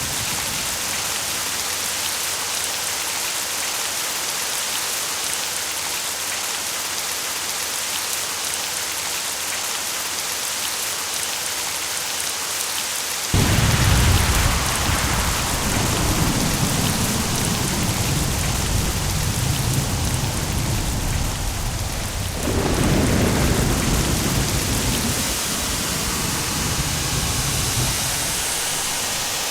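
Steady rain with thunder: a sudden clap about 13 seconds in that rolls on as a low rumble, a second clap about 22 seconds in, and the rumble fading away near the end.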